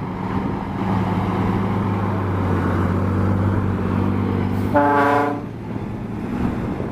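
Scania truck's diesel engine running as the truck pulls away, with a steady low drone. About five seconds in its horn sounds once, a short blast of well under a second.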